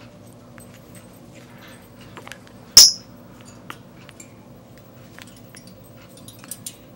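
Small clicks and taps of a Timneh African grey parrot's beak and claws, with one short, loud, sharp click or squeak about three seconds in.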